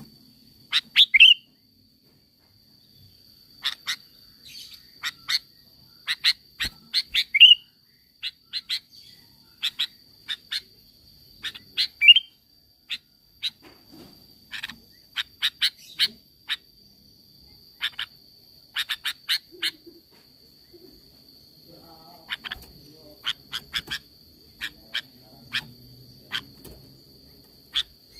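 Sooty-headed bulbul (kutilang) calling: quick clusters of short, sharp chip notes, a few ending in an upward-sweeping whistle, over a faint steady high tone.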